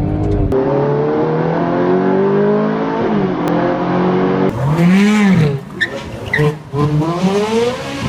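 Lamborghini Aventador Ultimae's naturally aspirated V12 accelerating hard. Its pitch climbs steadily, then drops at an upshift about three seconds in. Near the middle it sweeps quickly up and back down, and the sound changes abruptly a few times, as between shots.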